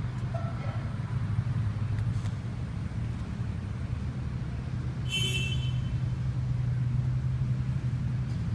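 A steady low engine hum, a little stronger from about five seconds in, with a brief high-pitched squeal at that point.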